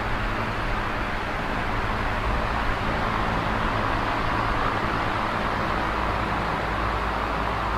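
Small oscillating electric fan running steadily: an even rush of air with a low motor hum beneath.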